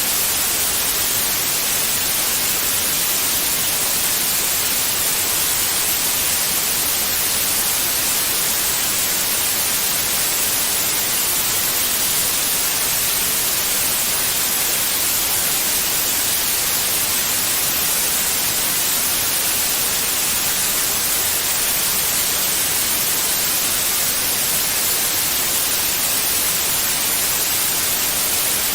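Steady, unchanging white noise, a hiss that is strongest in the high frequencies, played as a womb-like sound to calm babies.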